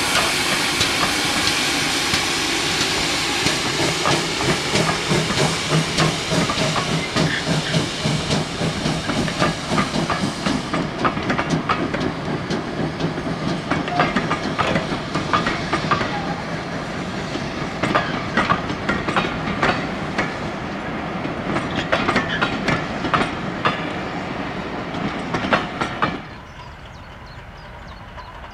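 Vintage passenger coaches behind steam locomotive 7714, a GWR pannier tank, rolling past, their wheels clicking over rail joints under a rumble of running gear. A steam hiss from the engine fades out about ten seconds in. Near the end the train sound cuts off abruptly, leaving quiet outdoor background.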